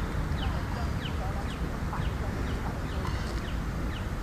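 Birds chirping in short falling notes, about two a second, over a steady low background rumble.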